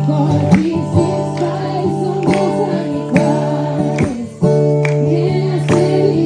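Music: strummed acoustic guitar with a voice singing along.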